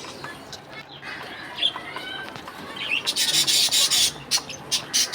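Budgerigars chirping softly, then a burst of wing flapping about three seconds in that lasts about a second, followed by a few sharp clicks.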